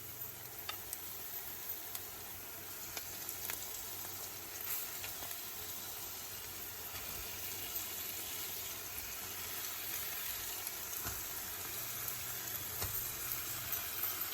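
Food sizzling and frying in hot oil in a stovetop skillet, a steady hiss with scattered small pops, growing slightly louder partway through.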